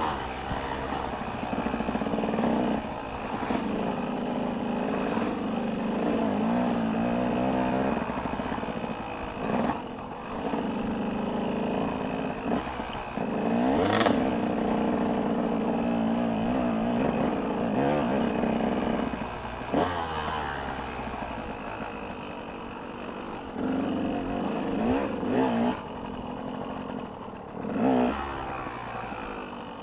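Motocross bike engines revving hard and shifting, the pitch climbing and dropping again and again, with a single sharp crack about halfway through.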